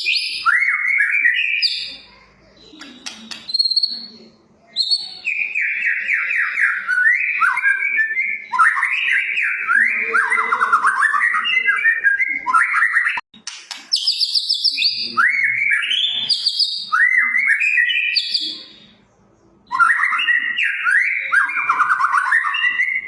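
White-rumped shama (murai batu) singing loud, continuous song: long phrases of fast, rapidly repeated notes sweeping up and down, broken by a few short pauses.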